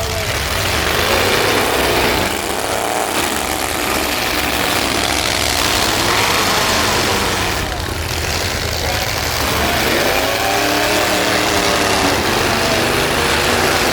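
Demolition-derby trucks' engines running loudly, rising and falling in pitch as they rev, most strongly about a second in and again near the ten-second mark.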